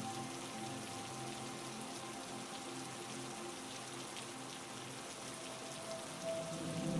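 Steady heavy rain falling, a dense hiss of drops, over faint sustained low tones; a louder chord of tones swells in near the end.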